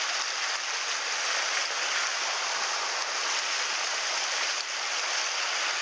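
Mountain stream rushing over rocks, a steady close rush of water.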